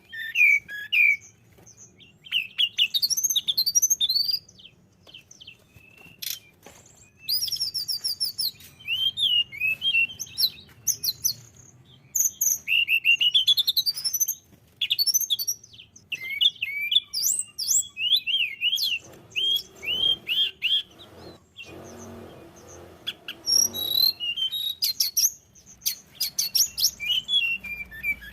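Tledekan gunung singing a varied song of quick trills, rapid chattering notes and sweeping whistles, delivered in bursts with short pauses between phrases.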